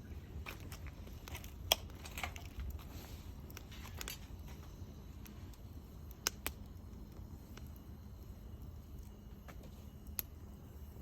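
Wood fire crackling, with a handful of sharp pops spread irregularly across the seconds over a low steady background.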